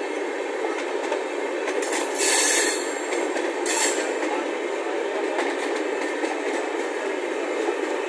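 Passenger train running on the rails, a steady rumble of wheels on track. A brief, louder hiss comes about two seconds in and a shorter one about a second later.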